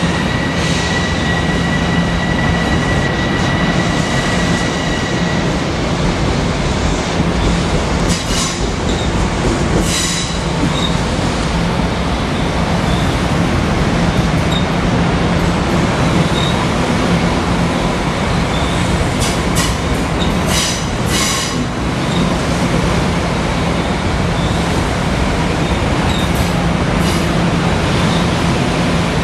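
Long Island Rail Road M7 electric multiple-unit train pulling out of the station. There is a steady electric hum, and a high whine that drops out about six seconds in. Sharp wheel squeals and clicks come off the rails several times.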